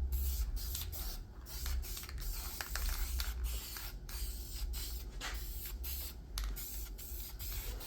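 Aerosol spray paint hissing from a rattle can in a run of short bursts with brief breaks between them, as a coat of graphite-coloured paint goes onto welded mild steel.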